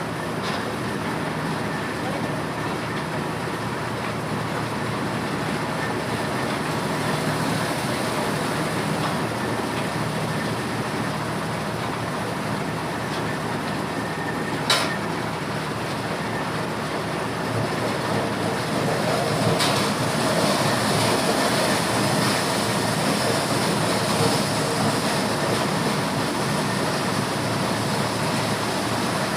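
Motorised corn sheller running steadily, a dense continuous mechanical clatter, with a sharp knock about halfway through and a weaker one a few seconds later.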